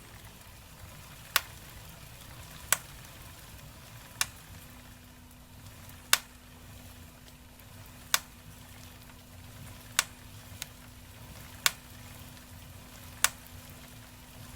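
Sharp single clicks from the crank and bottom-bracket area of a Specialized Diverge with a Praxis M30 crankset in a BB386 EVO press-fit bottom bracket, being pedalled hard on an indoor trainer. There is one click about every one and a half to two seconds, over a low steady hum. This is the creaking fault, a click at the 12 o'clock position of the right crank under heavy pedalling, which the owner traces to somewhere around the crank area.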